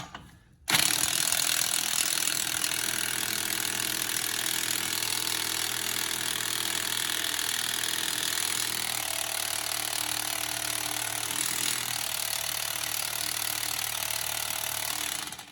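Impact wrench hammering continuously on a car's 36 mm front axle nut for about fourteen seconds, then cutting off suddenly; the nut does not break loose.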